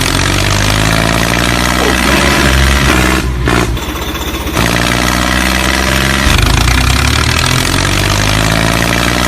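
Tractor engine running steadily with a low chugging note, briefly cut off between about three and four and a half seconds in.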